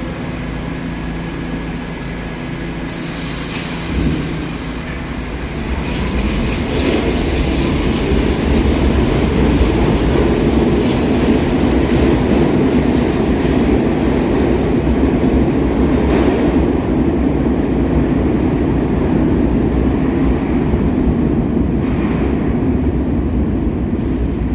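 New York City subway train running on the rails, growing louder over the first several seconds and then holding steady, with a high hiss from about three seconds in. The sound stops abruptly at the end.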